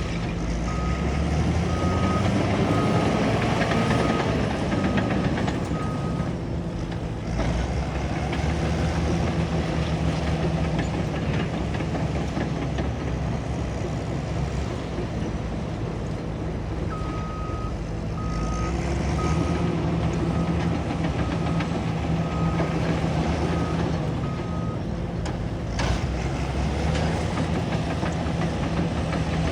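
Bulldozer's diesel engine running steadily under load, swelling a little as it pushes, while its reverse alarm beeps about once a second in two runs of several beeps, near the start and again in the second half.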